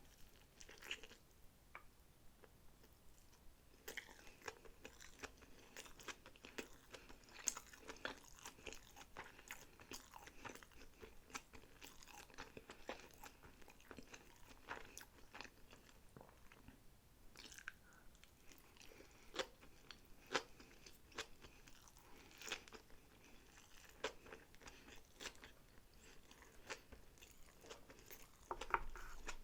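Close-miked chewing of sushi rolls: quiet, irregular wet mouth clicks and crunches, several a second.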